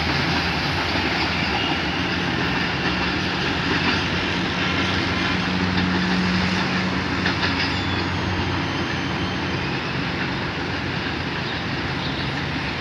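Passenger train hauled by a ZCU-30 diesel-electric locomotive moving away down the line: a steady rumble of wheels on rail with a low engine hum and a few clicks, slowly fading.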